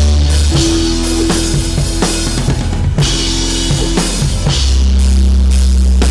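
Live band music with a drum kit and a heavy held bass, played loud.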